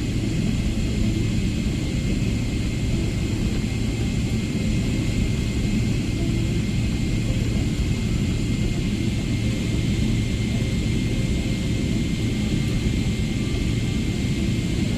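Steady cabin noise of a jet airliner: an unbroken low rumble of engines and airflow with a faint steady whine above it, heard from inside the cabin.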